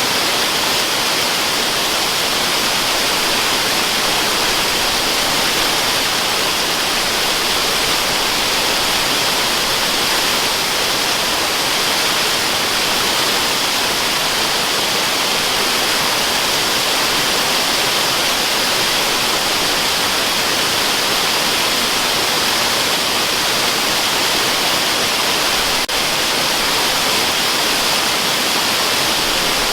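Waterfall: a steady, unchanging rush of falling water with a hissy top, heard as white noise.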